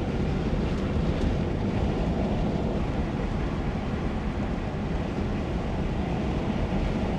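Steady rushing wind buffeting the microphone, heaviest in the low end.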